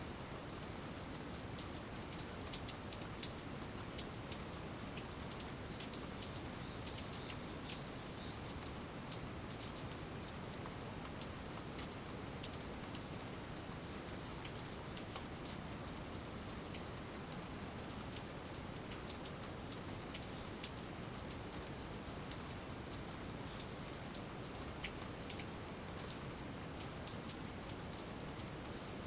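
Steady rain falling: an even hiss with many individual drops ticking sharply on top of it.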